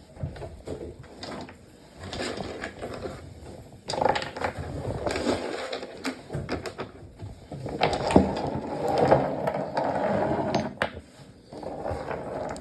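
Water being poured into a glass cup in a few spells, with scattered clicks and knocks from handling.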